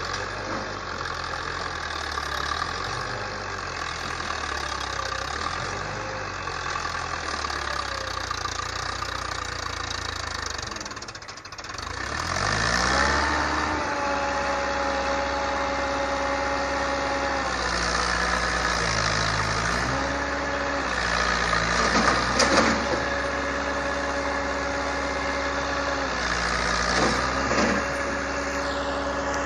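Tractor engine running; about twelve seconds in it revs up, then holds a steady pitch with a few small dips and rises.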